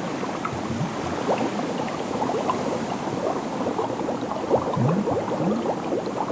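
Water bubbling and gurgling, a steady stream of small bubbles like an underwater sound effect.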